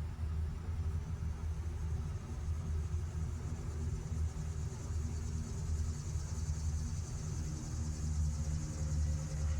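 Outdoor ambience: a steady low rumble with a high, even insect trill that grows louder in the second half.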